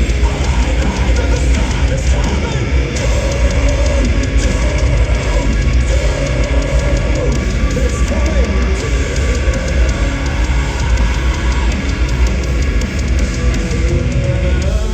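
Live metalcore band playing an instrumental passage: heavy distorted guitars, bass and fast, pounding drums, loud and dense with no vocals.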